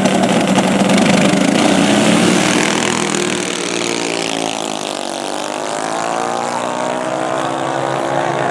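Drag-racing ATV engines running hard at full throttle, loud and continuous. The engine pitch dips about halfway through, then climbs again.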